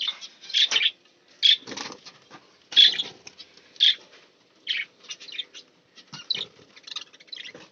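Caged budgies and finches chirping in short, scattered high calls, with a few brief flutters or knocks in between.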